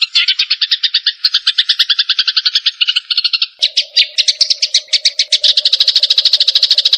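Cucak jenggot (grey-cheeked bulbul) and sparrow calls from a masteran recording: continuous rapid chattering, about ten notes a second. A little over halfway through, the chatter changes pattern and a steady low note sounds beneath it.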